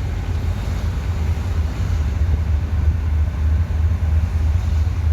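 Wind buffeting the microphone: a loud, uneven low rumble with no other clear sound over it.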